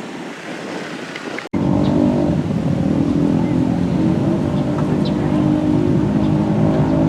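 Outdoor background noise with wind, then after a sudden cut about a second and a half in, a motorcycle engine running steadily at an even speed.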